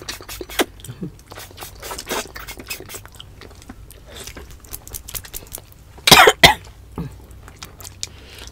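Two people eating balbacua beef stew with their hands: chewing and lip smacking in many short clicks. One loud cough about six seconds in.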